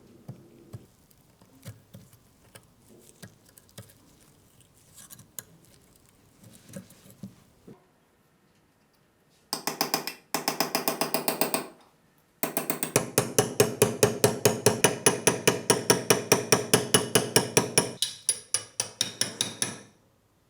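Light clicks and taps of small parts being handled, then a hand tool worked in fast back-and-forth strokes, about five a second, briefly pausing twice before running on steadily and stopping near the end.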